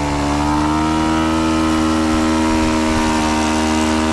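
Four-stroke model-airplane engine run up to full throttle on the ground. It finishes climbing in speed right at the start, then holds a steady high pitch.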